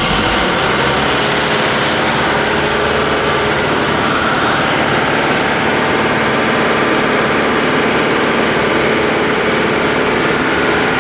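Engine-driven fire pump running steadily and loudly just after a manual start, pumping against its closed discharge valve; it is working normally.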